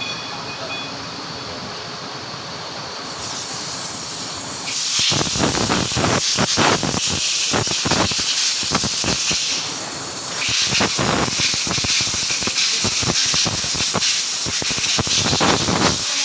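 Loud hissing with an irregular crackle, starting about five seconds in, easing briefly around ten seconds, then starting again.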